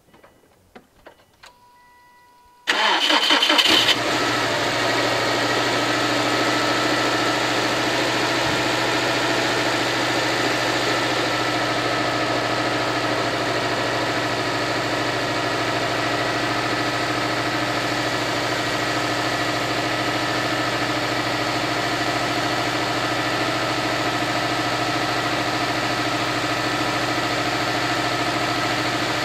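Subaru WRX STI turbocharged flat-four (boxer) engine cold-started at −10 °C: a few faint clicks and a short beep, then the starter cranks for about a second and the engine catches about three seconds in. It then settles into a steady cold idle.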